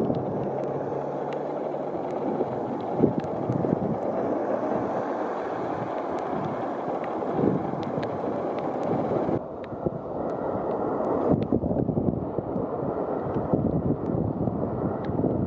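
Strong typhoon wind buffeting the microphone along with rain, a steady rushing noise with scattered faint ticks. The top end falls away about nine seconds in.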